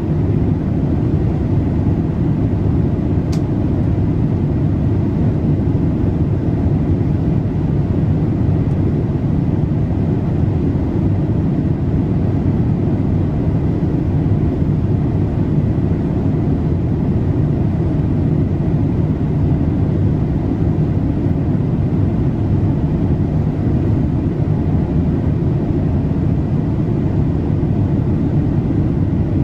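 Steady cabin noise of a Boeing 787-8 airliner in flight: a constant low rush of airflow and engine noise. A faint brief tick sounds about three seconds in.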